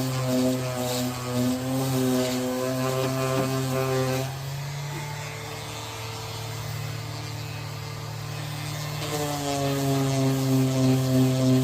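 An electric motor, likely a body-work power tool, running with a steady hum. It cuts out about four seconds in, leaving a quieter single tone, and starts running again about nine seconds in.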